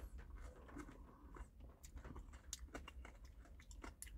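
Faint eating sounds from a man chewing a spoonful of McFlurry ice cream with caramel popcorn pieces: scattered soft irregular mouth clicks and smacks over a low steady hum.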